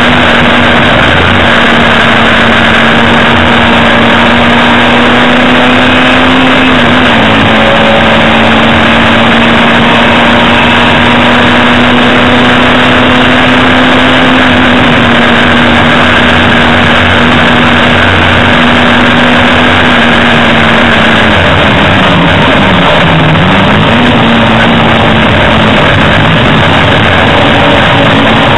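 Hillman Imp's rear-mounted four-cylinder racing engine heard loud from inside the cabin, running hard at a near-steady pitch. The revs sag briefly about seven seconds in, then dip deeper and climb back again around twenty-three seconds in.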